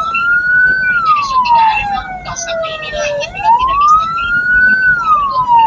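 A hearse's siren wailing, its pitch rising slowly and then falling in long sweeps of about four seconds each, with irregular short high-pitched noisy bursts alongside.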